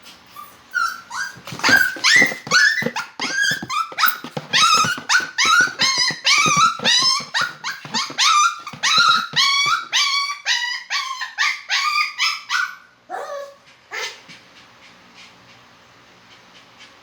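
Poodle giving a fast run of short, high-pitched whining yelps, about three a second, which stops about thirteen seconds in, followed by a couple of lone cries.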